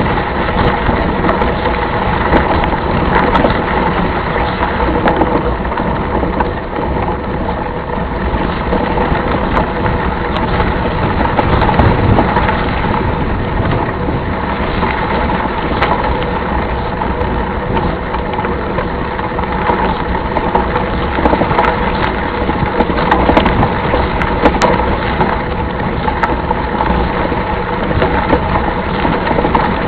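Steady loud rolling noise with frequent small rattles and crunches, as of riding over rough ground, with a faint steady hum underneath.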